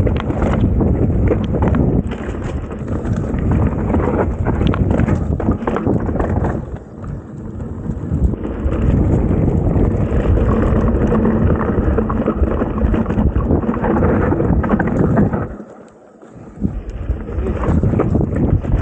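Mountain bike riding down a rough dirt trail: wind buffeting the camera microphone, with the bike rattling and knocking over bumps. The noise drops away briefly twice, about seven and sixteen seconds in.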